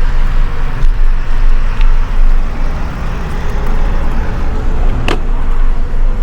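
Wind buffeting the camera's microphone while riding a bicycle: a heavy low rumble that swells and drops unevenly, with one sharp click about five seconds in.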